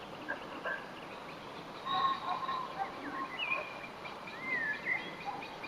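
Birds singing and calling outdoors: a mix of short chirps and whistled, gliding notes over a steady hiss, busiest about two seconds in and again near the end.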